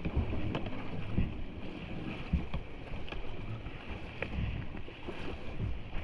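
Kayak moving down a creek: water rushing and splashing around the hull, with wind buffeting the microphone and irregular knocks about once a second.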